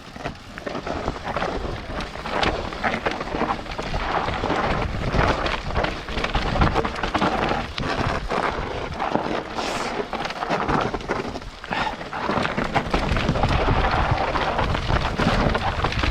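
Wind buffeting an action camera's microphone on a fast mountain bike descent, with the tyres rumbling and rattling over rough dirt and gravel. It gets louder about three quarters of the way through.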